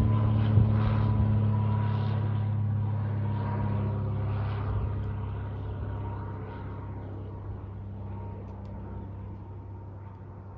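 Aircraft engine drone with a steady low hum and a fainter higher tone, fading steadily as the plane moves away.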